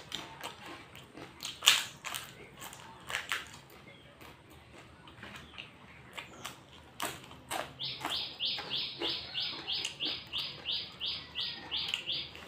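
Crunchy bites and chewing of a fried samosa crust, then from about eight seconds in a high, animal-like chirp repeated evenly about three and a half times a second, the loudest sound here.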